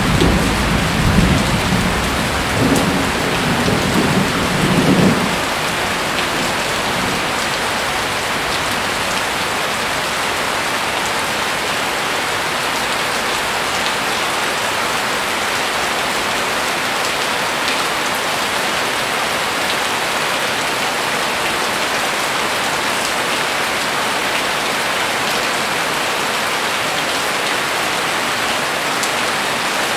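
Heavy rain falling steadily on a garden's trees, shrubs and paved path, an even hiss with scattered drip ticks. A low rumble of thunder dies away about five seconds in.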